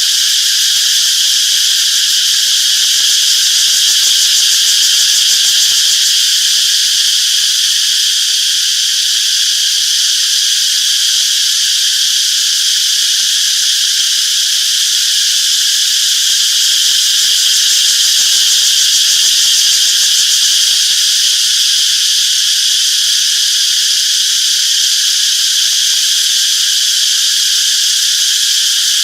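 A chorus of cicadas buzzing in a steady, dense, high-pitched drone that never breaks.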